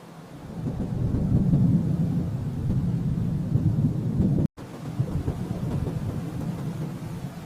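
Rolling thunder: a low rumble that swells about half a second in, peaks over the next second or so, then slowly fades, broken by a split-second dropout about four and a half seconds in.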